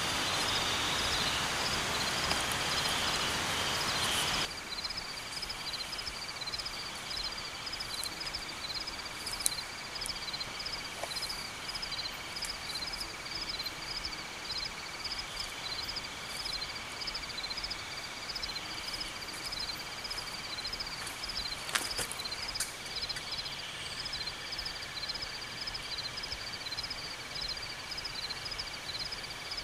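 Tropical forest insect chorus: crickets chirping in a fast, even rhythm over a steady high drone. A louder rushing hiss in the first few seconds cuts off abruptly, and there are a couple of sharp clicks.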